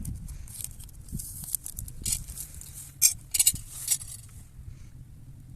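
Short clinks and scrapes of cooking utensils being handled, a quick cluster of them about two to four seconds in, over a low steady rumble.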